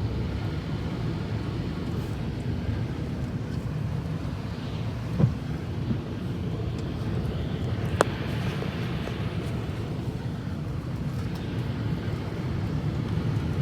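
Steady car-cabin road and engine rumble while driving through snow, with a soft knock about five seconds in and a sharp click about eight seconds in.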